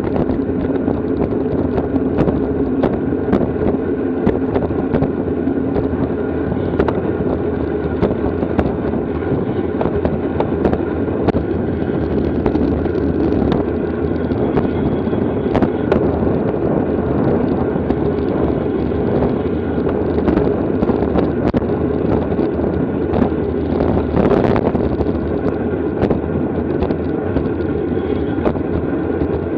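Steady rush of wind and road noise from a road bike ridden at race speed, with scattered sharp clicks and knocks throughout.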